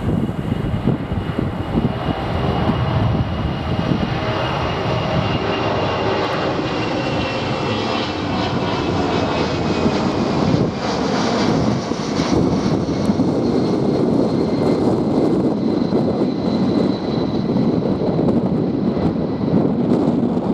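Boeing C-17A Globemaster III's four Pratt & Whitney F117 turbofans at takeoff power: a loud, steady jet engine noise with thin whining tones that slowly drift in pitch.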